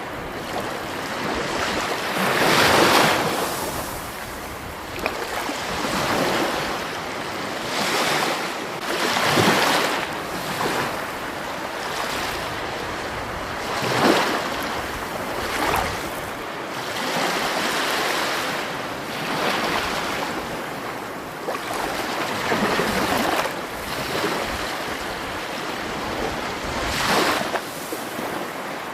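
Rushing water, a steady wash that swells and ebbs every few seconds with a few sharper surges.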